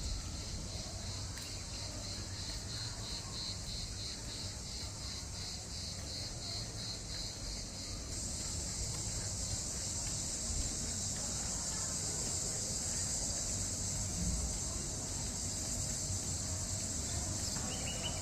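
An outdoor insect chorus: a shrill high chirping that pulses about twice a second, joined about eight seconds in by a louder, steady high buzz. A low rumble, like wind on the microphone, sits underneath.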